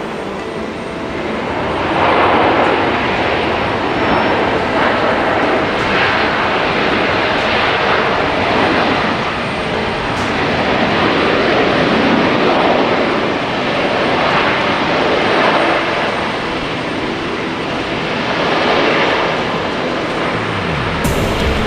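Jet engine noise from an arriving Boeing 777-300ER, its twin GE90 turbofans making a continuous rushing roar. The roar swells about two seconds in, then rises and falls in slow waves.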